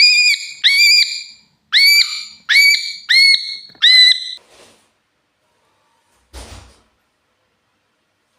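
Cockatiel calling loudly, six shrill whistled calls in quick succession, each sweeping up and then holding its pitch. About two seconds later, a single short thump and rustle.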